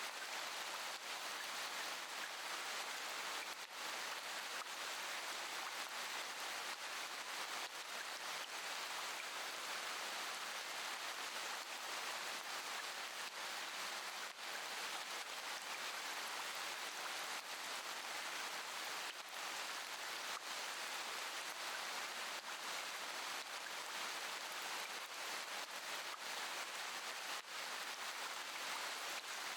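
Steady rainfall, an even hiss with no pauses.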